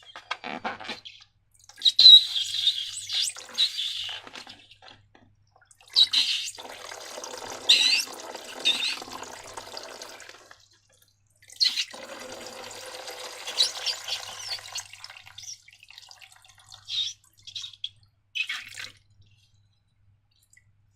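Wet slime squelching and pouring out of a balloon in three spells of a few seconds each, with two short squelches near the end.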